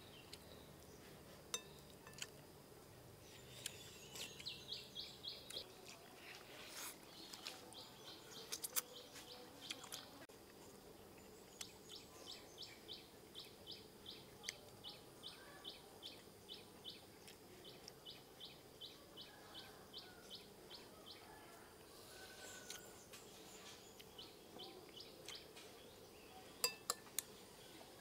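A bird chirps in several runs of short high notes, about two a second, over a quiet background. Occasional sharp clinks of spoons against ceramic bowls, three in quick succession near the end.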